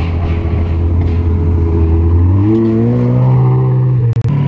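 Ferrari 360 Spider's V8 running at low revs as the car rolls slowly by, then rising in pitch about two and a half seconds in as it is given more throttle. The sound cuts out twice very briefly near the end.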